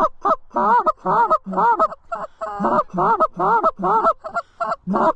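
Canada goose honks and clucks in a rapid, loud, close run of short calls, about three a second, each bending up and then down in pitch.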